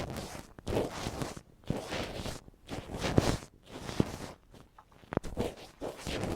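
Ear pick scraping and rubbing against the microphone in irregular scratchy strokes, with a few sharp clicks.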